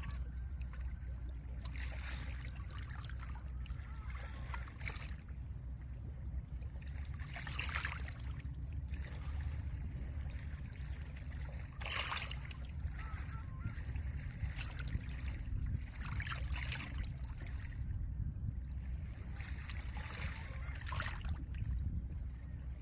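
Small lake waves washing and breaking over a pebble shore every few seconds, each wash a short hiss and rattle of stones, over a steady low rumble of wind.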